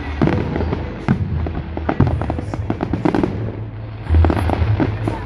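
Display fireworks going off in quick succession: a dense run of sharp bangs and crackles, several a second, with no pause.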